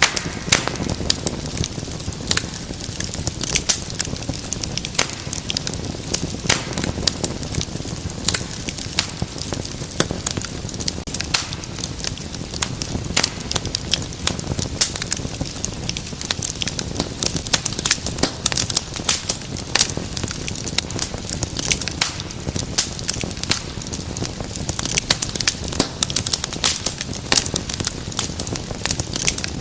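Wood fire in a fireplace crackling: a dense run of irregular sharp pops and snaps over a low rumble of flame.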